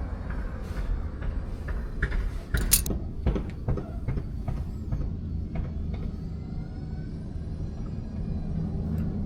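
Metal clicks and clinks as a 4x4 locking hub mechanism is worked into a Chevy K5 Blazer's front wheel hub with pliers, a run of sharp clicks through the first six seconds, loudest about two and a half seconds in. A steady low hum runs underneath.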